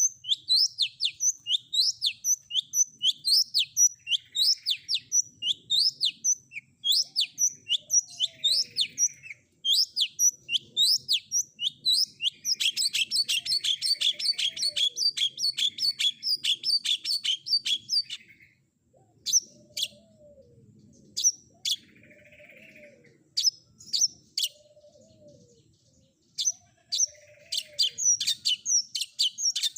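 Long-tailed shrike (cendet) song from a tutoring recording: a run of sharp, high, rising-then-falling whistled notes at about two or three a second, a fast trill of rapid notes lasting several seconds in the middle, then scattered single sharp notes toward the end.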